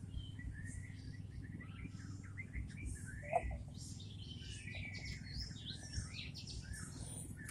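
Nias hill myna (Gracula robusta) chattering: a busy run of short chirps and whistles, some sliding up or down in pitch, over a steady low rumble.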